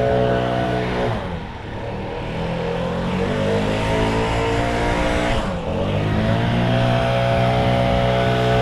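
An engine running at a steady speed, its pitch dipping about a second in and climbing back over a few seconds, then dipping again and settling back to a steady speed.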